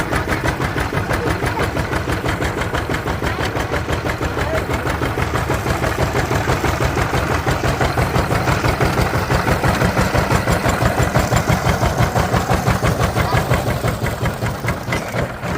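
Diesel engine running with a rapid, even chugging beat, fading a little near the end.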